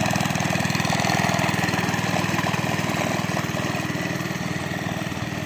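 Mini bike's small single-cylinder engine running steadily under throttle as it is ridden, with a fast, even firing rhythm; it grows a little fainter near the end.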